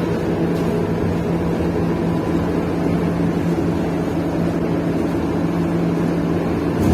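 City bus engine running, a steady low drone with a constant hum.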